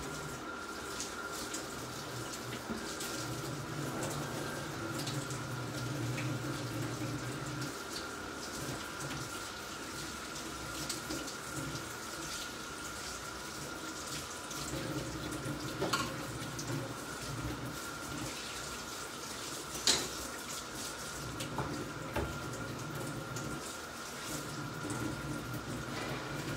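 Lamb offal (liver, lung and heart) sizzling in a frying pan as the last of the wine cooks off and the pan goes nearly dry: a steady hiss with scattered sharp ticks, two of them clearer, about a third and three quarters of the way in. A faint steady whine runs underneath.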